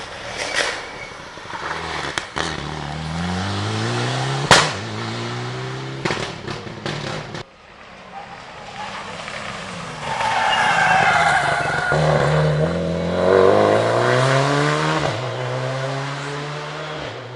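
Rally cars passing at speed: engine pitch climbing and stepping through gear changes, with one sharp bang about four and a half seconds in. The sound drops off abruptly, then a second car goes by hard with tyres squealing, its engine revving up and down through the gears.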